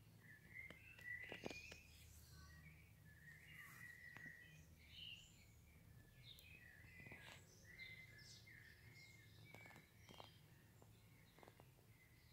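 Faint birdsong: many short chirps and trills from small birds, mixed with a few soft clicks.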